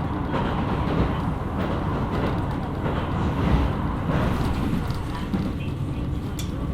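KiHa 127 series diesel railcar running along the line: a steady rumble of engine and wheels on the rails, with a sharp tick near the end.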